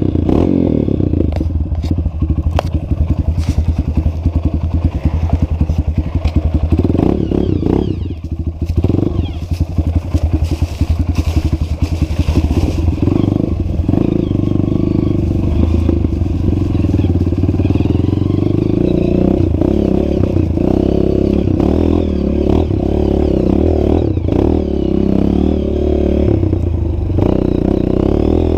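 Motorcycle engine running under throttle, revving up and down with the pitch rising and falling, with some clattering over the top.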